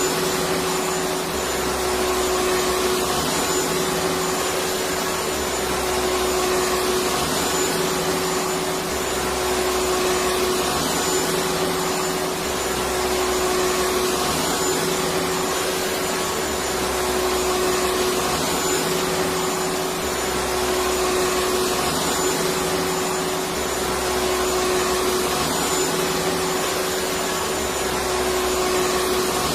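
Vacuum cleaner running steadily: a constant motor hum over a rush of air, with a faint low pulse repeating about every two seconds.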